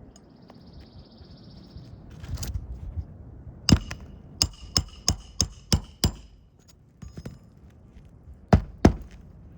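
Hammer striking a flat pry bar to release roofing nails under an asphalt shingle: seven quick ringing metal strikes about three a second, then two more near the end.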